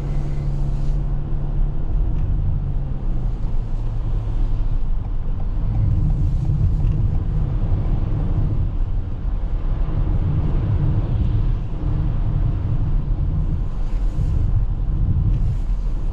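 Road and tyre rumble heard inside the cabin of a Toyota RAV4 Hybrid driving on snowy roads. A steady hum in the first two to three seconds fades out, leaving the low rumble.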